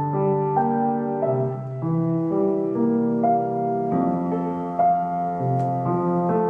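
Slow instrumental music on a keyboard, a melody of held notes over changing chords.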